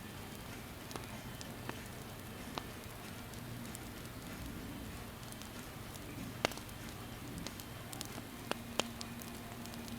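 Wood fire burning with a steady low rush and scattered sharp crackles and pops, the loudest pop about six and a half seconds in. A faint steady hum comes in near the end.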